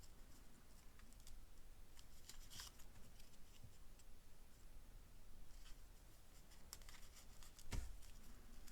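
Faint rustling and light taps of paper pieces and embellishments being handled and laid out on a page, with one soft thump near the end.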